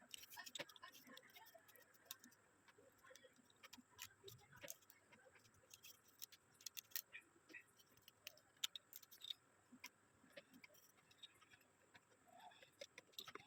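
Faint, irregular small clicks and taps of plastic phone parts and tools being handled while the thin antenna strips are fitted back into the phone's housing.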